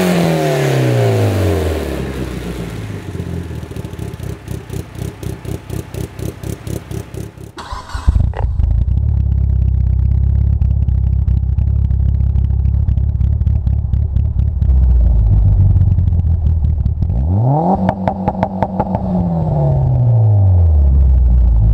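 Turbocharged 4G63 four-cylinder of a 2005 Mitsubishi Lancer Evolution VIII MR with GSC S2 274 cams and a Vishnu catback exhaust. It falls from a rev into a lumpy, pulsing cam idle, and about eight seconds in the sound turns louder and deeper as the idle goes on. Near the end it revs up to the two-step limiter and holds there, crackling, for about a second, then drops back to idle.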